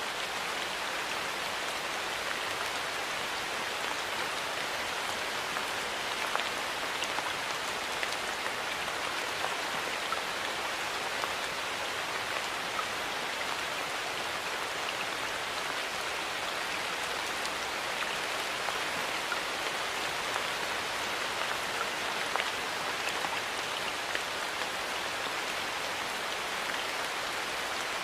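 Steady rain falling, a dense even patter with scattered individual drops ticking on surfaces.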